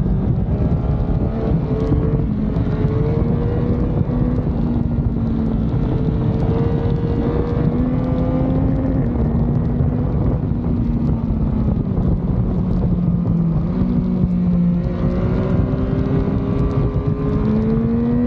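Motorcycle engine running under way at a fairly steady speed, its pitch wandering gently with the throttle. It dips a little past the middle and climbs again near the end.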